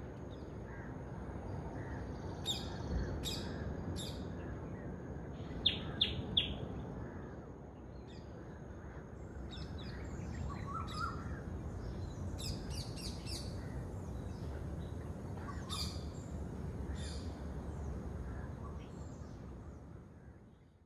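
Wild birds chirping in short, scattered calls over a low, steady outdoor rumble, with a quick run of three loud chirps about six seconds in. It fades out at the very end.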